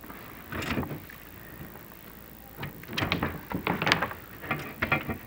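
Chimney inspection camera scraping and knocking against the clay flue tiles as it is lowered down the flue: one short burst of scraping about half a second in, then a busier run of knocks and rasps from about two and a half seconds on.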